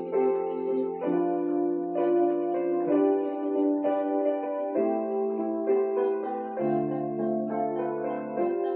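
Slow instrumental piano music, with sustained chords changing every second or so and a soft high tick about twice a second keeping time.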